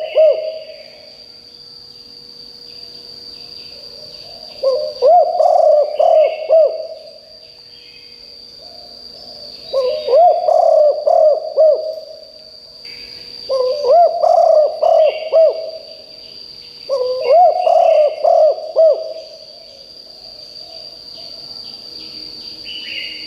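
Spotted dove cooing: four loud phrases of several coos each, about 2 s long and a few seconds apart, with the end of another phrase at the very start.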